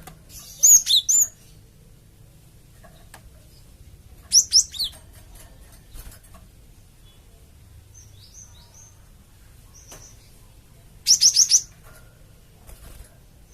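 Cinereous tit (gelatik batu) calling: three loud bursts of three or four quick, high, down-curving notes, about a second in, at about four and a half seconds and near the end, with a few fainter short calls between.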